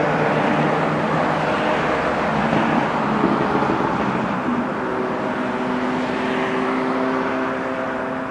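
Motor vehicle engine running with road noise, a steady engine hum under a broad rush that eases slightly toward the end.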